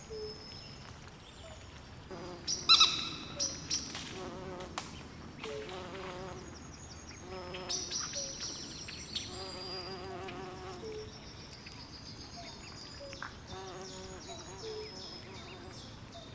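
Night swamp chorus: frogs calling in short pulsed trills and croaks, with insects chirping in quick high repeated notes. One louder, clearer call stands out nearly three seconds in.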